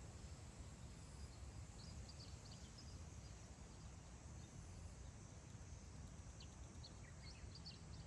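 Faint wind as a steady low rumble, with small wild birds giving short, high chirps about two seconds in and again in a quick cluster near the end.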